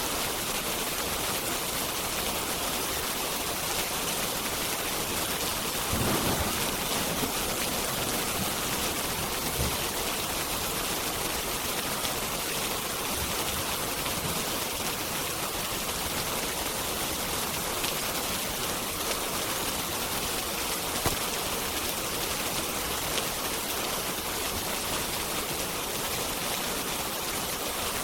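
Steady, heavy rain hissing without a break, with a few sharp pops from a crackling log fire. A brief low rumble comes about six seconds in.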